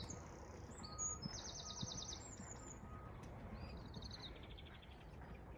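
A small bird singing fast trills of high repeated notes, then a pause of about a second and a shorter trill near the end, over a steady low rumble.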